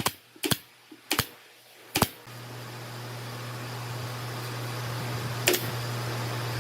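Four sharp knocks, as of wood or tools being handled. About two seconds in, a steady motor hum with a constant low tone comes on and runs on, with one more knock near the end.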